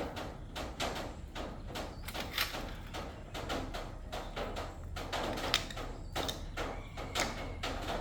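Irregular clanks, taps and scraping of metal parts and hand tools being handled during a motorcycle shock absorber repair, with an occasional brief metallic ring.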